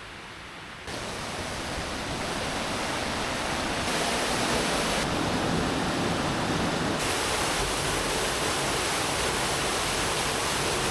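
Waterfall rushing: a steady roar of falling water, stepping up louder about a second in and again around four seconds in, with sudden shifts in tone as the sound changes between takes.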